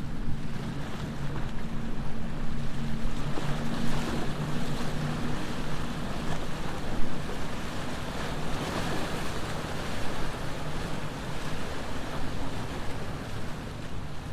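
Cigarette boat's engines droning as it runs out through the inlet, their steady tone fading after about five seconds. Rushing wind and surf noise fills the rest and swells about halfway through.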